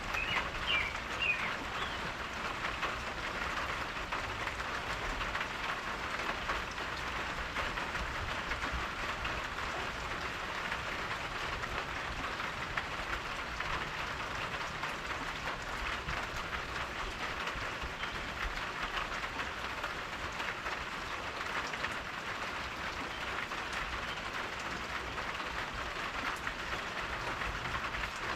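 Steady rain falling, a constant hiss, with a few short bird chirps in the first second or so.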